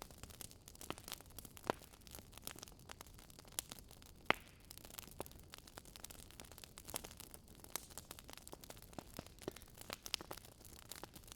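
Campfire wood crackling: irregular sharp pops and snaps over a faint low hiss, with a louder pop about four seconds in.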